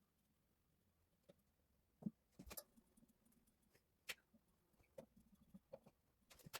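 Faint, scattered clicks and light knocks from plumbing tools and pipe fittings being handled. The clearest come about two seconds in, about four seconds in, and near the end.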